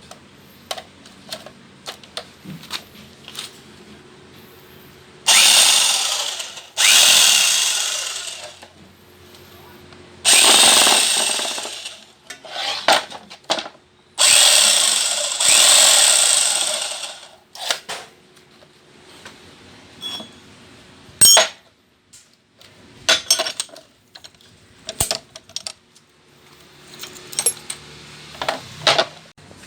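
Rebuilt electric jackhammer test-run in five short bursts of one to two seconds each, hammering at full power. The bursts come between about five and seventeen seconds in, with scattered clicks and knocks from handling on either side.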